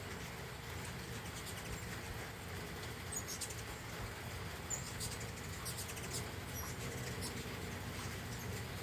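Steady rain with scattered light ticks, and a few brief high-pitched chirps from hummingbirds.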